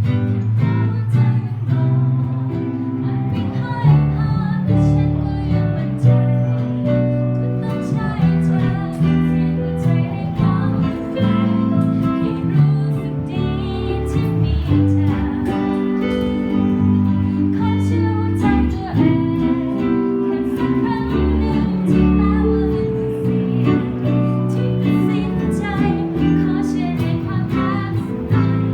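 A band playing a song, with acoustic guitar strumming under a singing voice.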